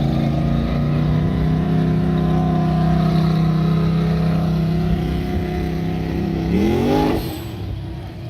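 Car engine running at a steady note, then revving up sharply about six and a half seconds in, after which the sound drops away.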